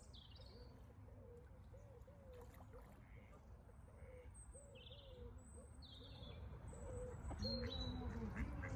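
Birds calling: a steady run of short, low, arching notes repeated about twice a second, with scattered short high-pitched calls above them, over a faint low rumble.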